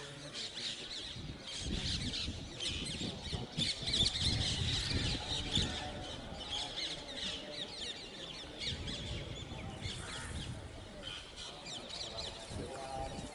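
Many small birds chirping, a dense chatter of short high calls, over a low rumble that is strongest in the first half.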